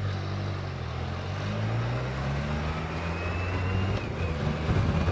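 Motorcycle engine pulling away, its pitch rising over the first couple of seconds and then holding steady as it cruises.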